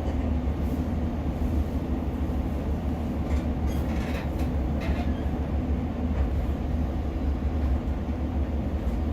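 Interior running noise of a Class 150 diesel multiple unit under way: a steady low engine and wheel drone, with a few short clicks and rattles about three to five seconds in.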